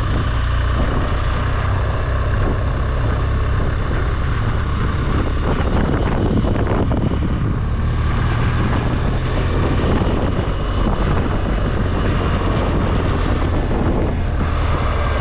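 BMW R1200GSA's boxer-twin engine running steadily as the motorcycle is ridden, with wind and road rush over it and a brief swish about six seconds in.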